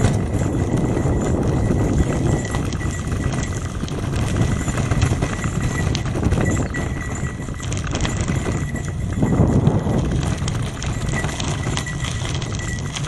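Bicycle ridden over a rough track, its frame and parts rattling and clattering continuously over a steady low rumble.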